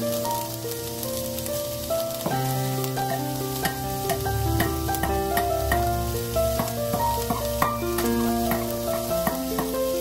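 Chopped onion sizzling in hot oil in a nonstick frying pan, a steady hiss with small crackles. Gentle background music of held, changing notes plays over it.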